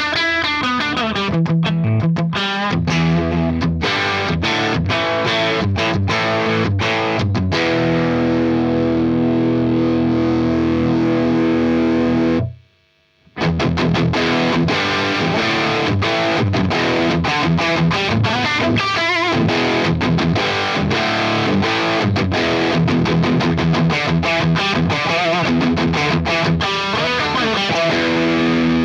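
Les Paul-type electric guitar played through a Fender Blues Junior IV 15-watt tube amp, heard through a reactive load and a 4x12 Vintage 30 cabinet impulse response. Picked notes lead into a chord left ringing for several seconds. The chord is cut off abruptly about twelve seconds in, and after a moment's silence the playing resumes.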